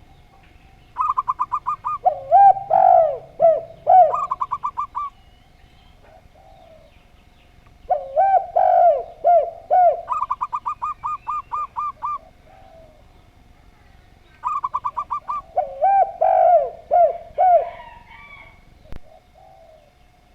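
Zebra dove and spotted dove cooing in three bouts, each a quick run of short, higher staccato notes alternating with lower, looping coos. A single sharp click comes near the end.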